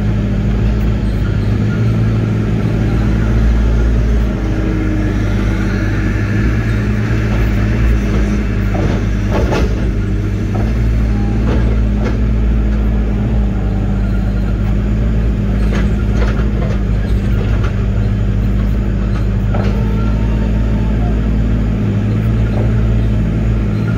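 Diesel engine of a Link-Belt 145 excavator running steadily under working load, heard from inside the cab, with a few sharp knocks and snaps as the bucket works among sticks and stump debris.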